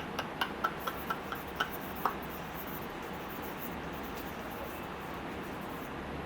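A quick run of about nine light, sharp clicks or taps in the first two seconds, each with a faint ring, then only quiet room noise.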